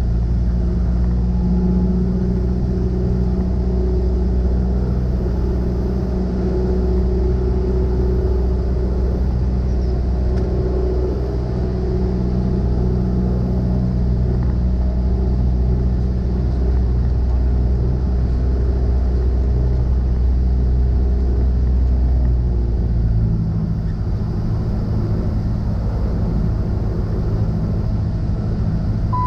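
Cessna 172SP's four-cylinder Lycoming engine and propeller running with a steady drone and a deep rumble underneath. About 23 seconds in the deepest rumble drops away and the sound grows rougher.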